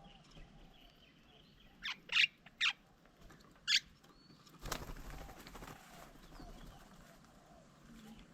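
Birds at a garden feeding table: four short, sharp high calls in quick succession a couple of seconds in, then a sudden rustling rush of noise near the middle that fades away.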